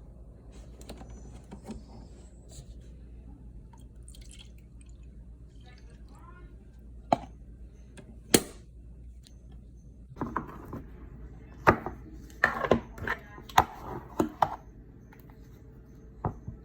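Sharp clicks and clinks of small objects being handled: two single ones, then a quick cluster in the second half, over a low steady hum.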